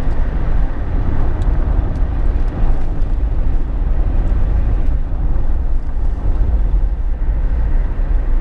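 Steady low rumble of road noise inside a Jeep Wrangler JK's cabin while driving, heaviest in the deep bass with no change in pace.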